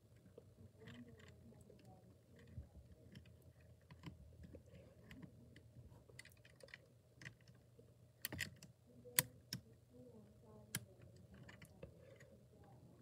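Faint, scattered clicks and taps of plastic Lego pieces being handled, with a few sharper clicks about eight and nine seconds in.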